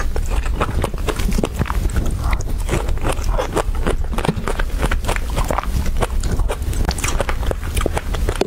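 Close-miked chewing of fresh strawberry and cream cake, a dense, irregular run of small clicks and smacks from the mouth.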